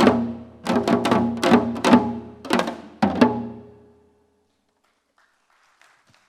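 Janggu hourglass drums struck in the closing strokes of a seoljanggu piece: a run of sharp, ringing beats, about two a second. The last stroke, about three seconds in, rings out and dies away, ending the piece.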